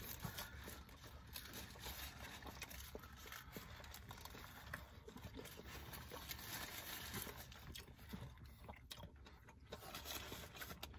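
Faint chewing of mouthfuls of burger, with small scattered clicks and light rustles of its paper wrapper.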